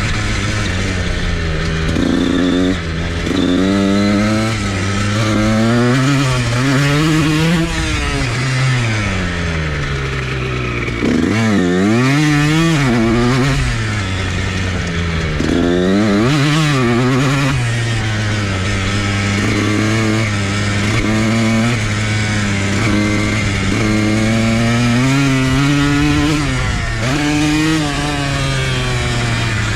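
Dirt bike engine being ridden hard, revving up and dropping back again and again as the rider works the throttle and shifts, with quicker up-and-down revving in a couple of spots.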